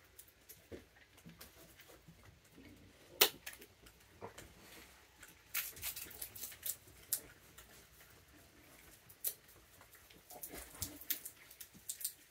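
A raccoon moving about and handling treats: scattered light clicks and taps, with one sharper knock about three seconds in.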